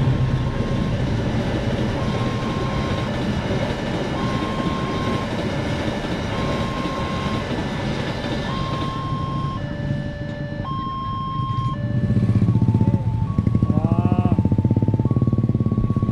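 Diesel-hauled passenger train passing over a level crossing, its wheels rumbling on the rails, while the crossing's electronic warning alarm sounds a repeating two-tone chime, one tone changing to the other about every second. About twelve seconds in the rumble grows louder with a rapid rhythmic clatter, and a brief rising whine is heard.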